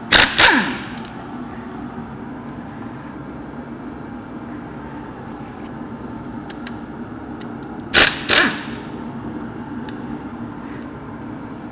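Two brief double bursts from a power tool, about eight seconds apart, each falling in pitch as it winds down, over a steady shop fan hum.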